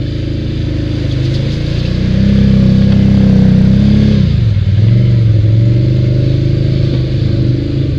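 ATV engine running under throttle while riding: the revs climb for a couple of seconds, drop sharply about four seconds in, then hold steady at a lower pitch.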